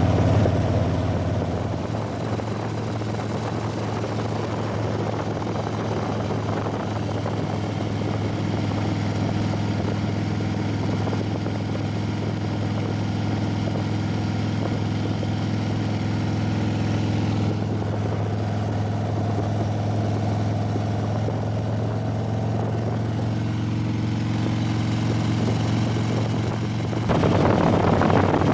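Motorcycle engine running steadily at cruising speed, with a low, even drone. About a second before the end, a louder rushing noise comes in over it.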